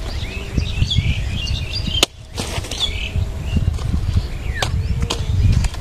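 Small birds chirping again and again over a loud, uneven low rumble, with a few sharp clicks.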